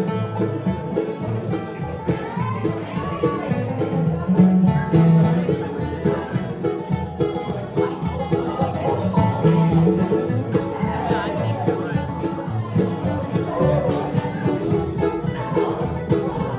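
Acoustic bluegrass band playing an instrumental break, with banjo rolls under a picked lead line.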